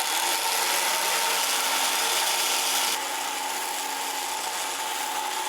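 Power woodworking tool running with a steady motor whine while it works a small piece of birch, with a steady hiss of wood being abraded or cut that eases a little about three seconds in.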